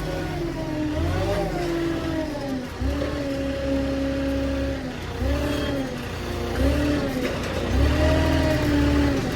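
Truck engine running, its pitch held steady for a second or two at a time and then briefly swelling and dropping several times over.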